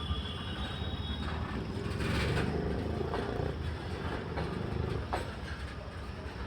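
Heavily loaded freight train rolling past with a steady rumble, its wheels giving scattered sharp clacks over the rail joints.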